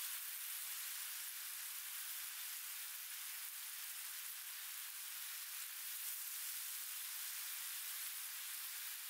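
Sliced meat and an egg sizzling in a grill pan over a portable gas stove, a steady hiss.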